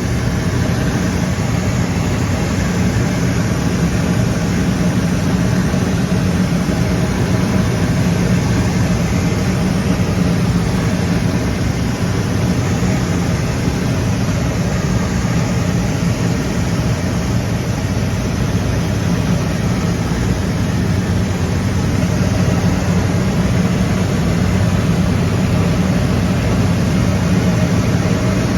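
Steady drone of an airliner's engines and rushing air heard from inside the passenger cabin in flight.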